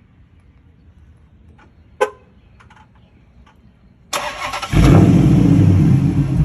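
Dodge Challenger SRT8's HEMI V8 warm start: a single click about two seconds in, the starter cranking briefly about four seconds in, then the engine catches loudly and keeps running steadily.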